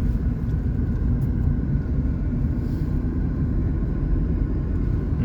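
Steady low rumble of a car on the move, with a faint even engine hum.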